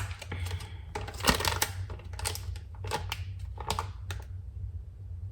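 Scattered clicks, taps and rustles of pancake-mix packets and kitchen utensils being handled, dying away after about four seconds, over a low steady hum.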